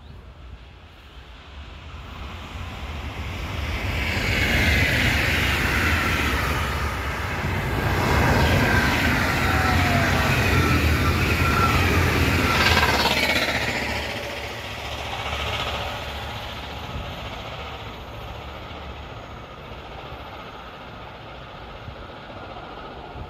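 A train passing by. It builds over a few seconds, stays loud for about ten seconds with a low rumble and a whine that falls in pitch, then fades away.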